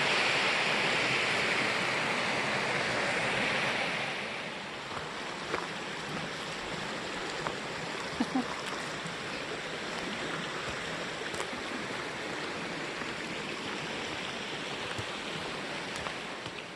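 Rushing water of a mountain creek and waterfall, louder for about the first four seconds and then dropping to a softer steady rush. A few faint clicks sound over it in the middle.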